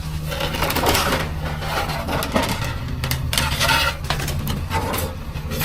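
Clattering and rattling of hard objects being handled in several bursts, over the steady low hum of a running vehicle engine.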